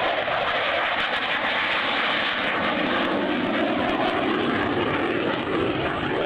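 Fixed-wing aircraft engine noise: a loud, steady rushing drone from an aircraft in flight.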